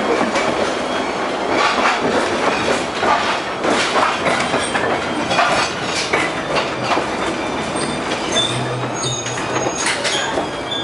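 Soviet LM-68M tram running along the track, heard from inside the car: a steady run noise with frequent sharp clacks and rattles as the wheels cross rail joints, and a thin, high wheel squeal near the end.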